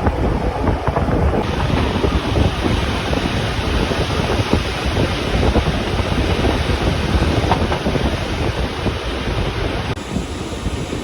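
Rhaetian Railway regional train running, a steady rumble and rush of air with wind buffeting the microphone and scattered clicks.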